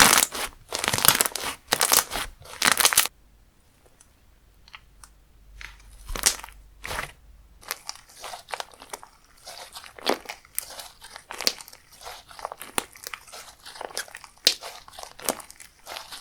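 Slime being squished and stretched by hand: loud crunching squeezes in the first three seconds, a few small pops, then from about halfway a steady run of small crackles and clicks.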